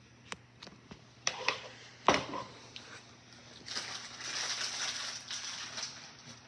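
Kitchen utensil and dish noises while plating pasta: a few light clicks, a sharp knock about two seconds in, then a couple of seconds of rough scraping.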